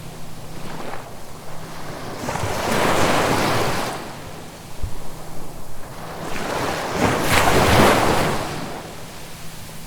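Ocean waves washing onto the shore: two surges of surf a few seconds apart, the second the louder, over a steady hiss of the sea.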